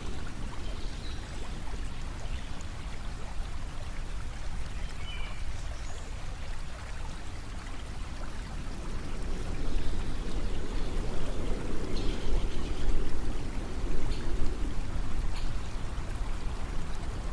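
Steady running water, like a flowing stream, over a continuous low rumble, swelling louder for a few seconds past the middle.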